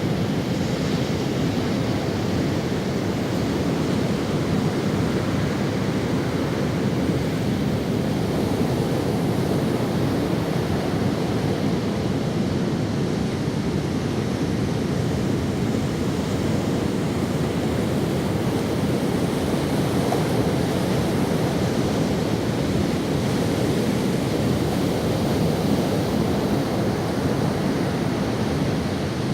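Ocean waves breaking and washing up on a sandy beach, a steady surf with slow swells and some wind on the microphone.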